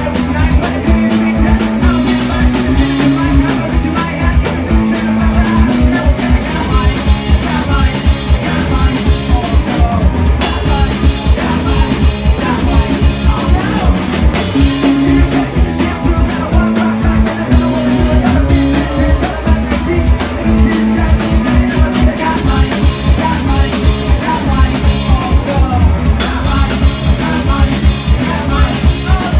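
Live rock band playing: distorted electric guitars, bass and a drum kit, with sung vocals, recorded loud from the audience.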